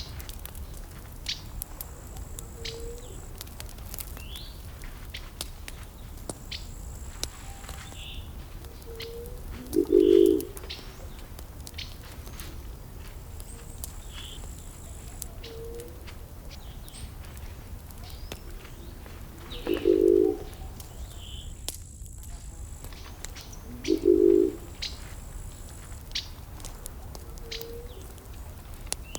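Burning wood crackling with scattered sharp pops. A bird gives a short, low call three times, about ten seconds in, about twenty seconds in and again four seconds later, and fainter high chirps come and go.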